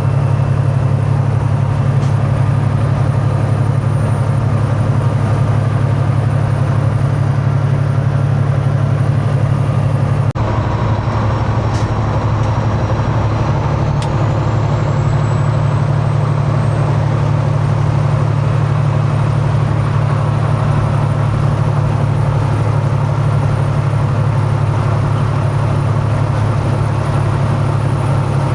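Semi truck's diesel engine droning steadily at highway cruise, heard from inside the cab, with a faint click about ten seconds in where the tone shifts slightly.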